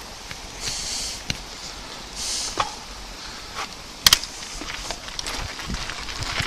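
Electric bike being ridden over a rough path: a steady rush of tyre noise with scattered sharp clicks and knocks from the bike, the loudest a quick double click about four seconds in.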